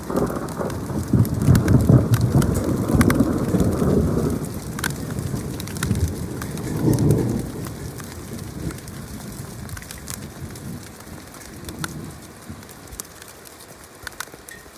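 Thunder rumbling during a severe thunderstorm, loudest over the first four seconds with another swell about seven seconds in, then fading. Steady rain beneath it, with scattered sharp ticks of drops striking surfaces.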